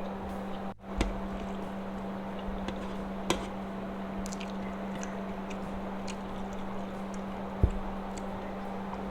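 Close-up mouth sounds of a person chewing a mouthful of fried rice, wet and squishy, with three sharp clicks of a utensil on the plate about a second in, past three seconds and near the end. A steady low hum lies underneath.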